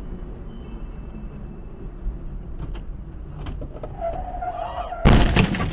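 Steady road rumble inside a moving car. About four seconds in a steady high squeal starts, and near the end a loud sudden impact noise.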